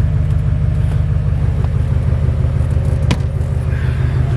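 Emissions-deleted LML Duramax 6.6 L V8 turbo-diesel idling steadily just after a cold start in freezing weather. A single sharp click comes about three seconds in.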